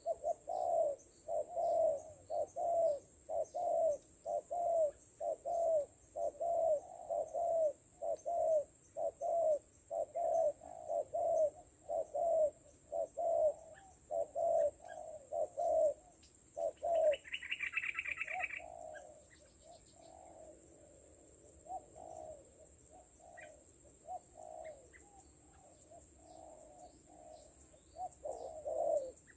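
Spotted dove cooing in a rapid, even run of low coos, about three every two seconds. The run breaks off about two-thirds of the way through with a brief rustling burst, then gives way to a few scattered fainter coos that pick up again near the end.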